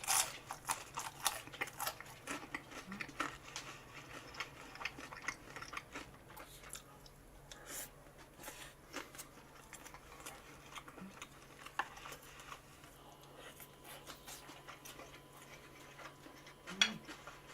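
Close-miked chewing of chewy noodles: many soft, irregular wet clicks and smacks from the mouth, faint, over a steady low hum.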